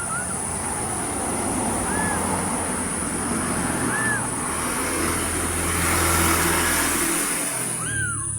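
Kittens meowing: short, high-pitched mews about every two seconds, over a steady background rumble and hiss that drops away near the end.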